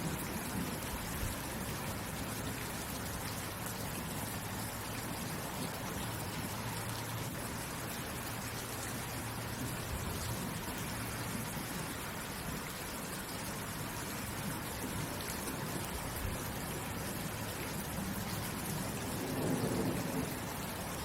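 Steady rain falling, an even hiss, with a low rumble of thunder near the end.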